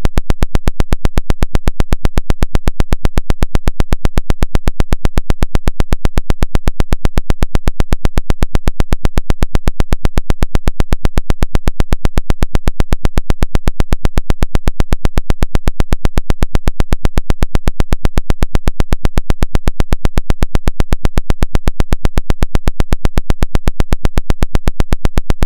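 'Woodpecker' radio pulse signal: a loud, rapid, perfectly even train of sharp pulses tapping on without change. The uploader presents it as an electronic-harassment jammer.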